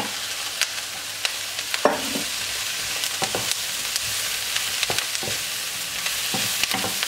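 Sliced mushrooms, onion, garlic and peppers sizzling as they are sautéed over high heat in a frying pan, with a wooden spatula scraping and knocking against the pan every second or so as it stirs them.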